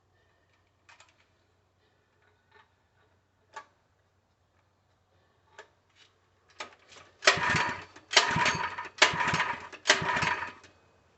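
Recoil starter of a Harbor Freight 3 HP small engine pulled four times in quick succession in the second half, each pull about a second of loud rasping cranking, and the engine does not catch. Before that, a few faint clicks and knocks.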